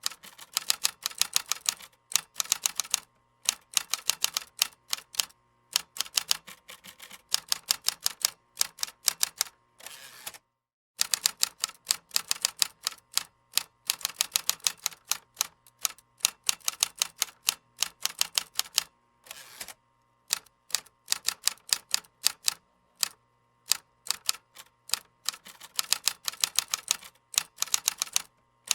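Typing on a computer keyboard: quick runs of key clicks broken by short pauses, with a brief gap of complete silence about ten seconds in.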